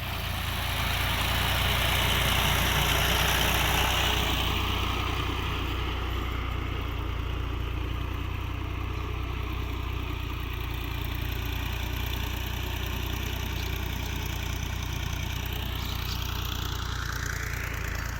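Fiat 480 tractor's diesel engine running steadily, a little louder for the first few seconds.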